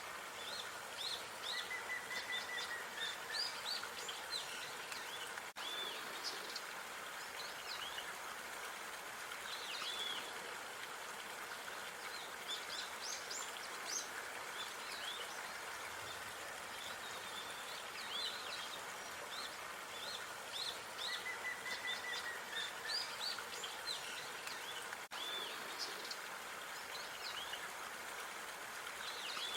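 Small birds chirping in short, repeated high calls, with a brief trill about two seconds in and again near twenty-one seconds, over a steady outdoor background hiss.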